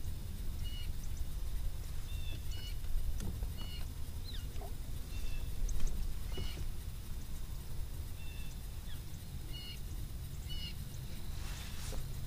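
Short, high bird chirps repeated at uneven intervals over a steady low rumble.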